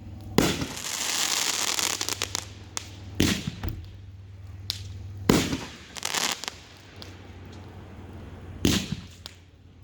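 Consumer aerial fireworks going off: four sharp booming reports a few seconds apart, with a long spell of crackling after the first and smaller pops in between.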